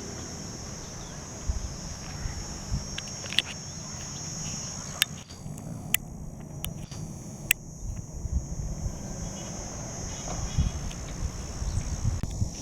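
Steady high-pitched insect drone, with a low rumble underneath and a few sharp clicks in the middle.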